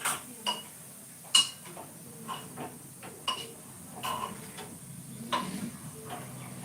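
Metal kitchen utensils or vessels clinking and knocking at irregular intervals, about a dozen light strikes with a brief metallic ring, the sharpest about a second and a half in.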